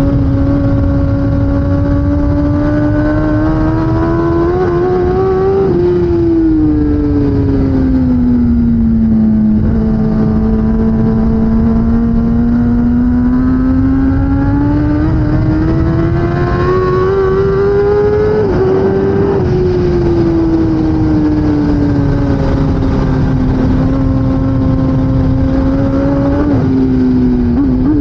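2016 Kawasaki ZX-10R's inline-four engine running hard at racing revs. Its pitch climbs steadily for several seconds, then eases back, twice over, under a constant low rushing noise.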